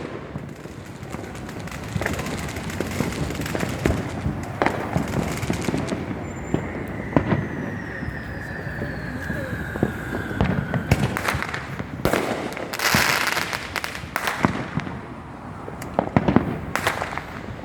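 Fireworks going off: a string of sharp bangs and pops throughout, with a long falling whistle from about six to eleven seconds in and a dense burst of crackling hiss a couple of seconds later.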